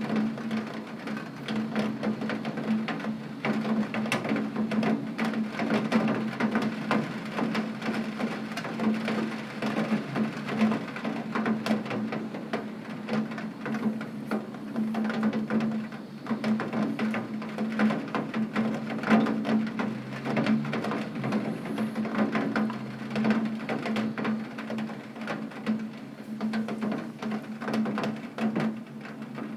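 Heavy rain striking window glass: a dense, irregular patter of drop impacts, with a steady low hum underneath.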